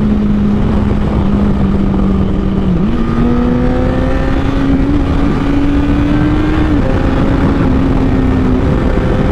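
Honda CBR1000RR Fireblade's inline-four running through a Taylormade aftermarket exhaust under way. The engine note holds steady, dips briefly about three seconds in, then climbs gradually, and drops again near seven seconds.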